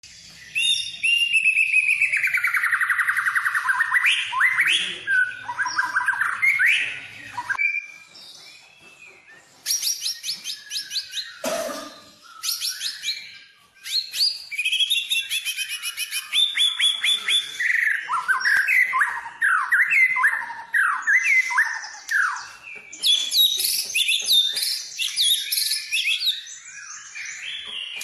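White-rumped shama (murai batu) singing a loud, varied song of rapid repeated notes, whistled glides and trills, in phrases broken by short pauses. It is played as a lure recording to provoke a caged shama into singing.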